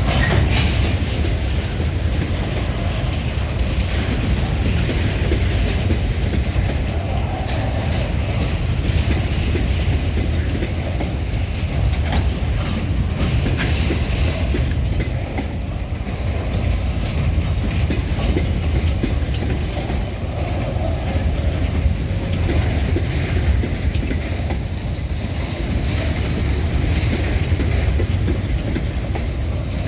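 Empty freight train rolling past, a steady rumble with the wheels clattering and clicking over the rails.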